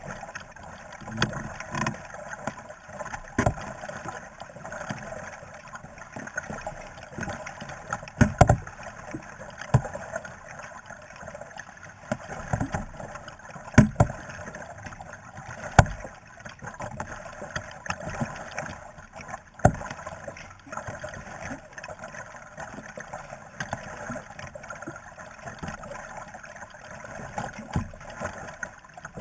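Kayak paddling on calm water: steady splashing and lapping of the paddle strokes, with a sharp knock every few seconds.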